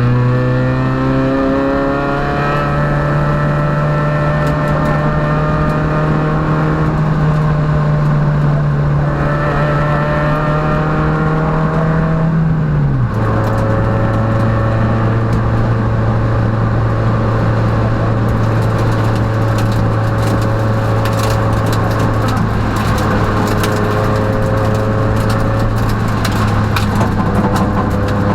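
Peugeot rally car's engine heard from inside the cockpit under load. The revs climb slowly for about twelve seconds, drop suddenly, then hold fairly steady. Sharp ticks and clicks sound over it in the second half.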